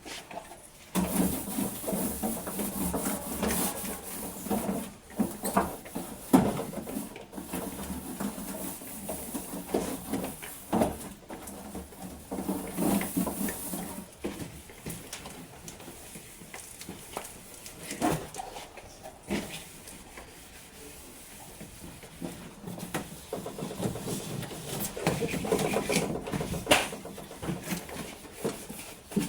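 Refrigerator being scrubbed and wiped down during washing, in irregular stretches of rubbing strokes with pauses between.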